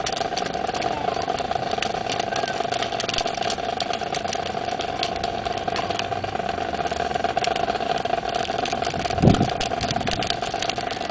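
A steady humming drone holding one pitch, with scattered sharp clicks and one heavy low thump about nine seconds in.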